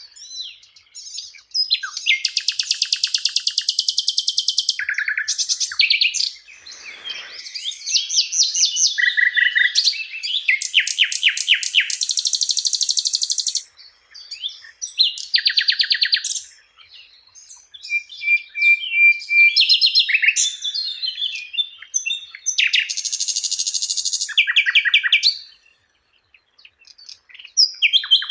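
Sikatan londo flycatcher singing vigorously: loud, high-pitched phrases of rapid trills and fast repeated chattering notes, broken by short pauses of about a second.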